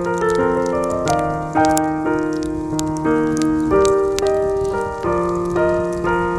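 Soft jazz piano music playing a gentle melody over chords, with scattered sharp pops and crackles of a wood campfire.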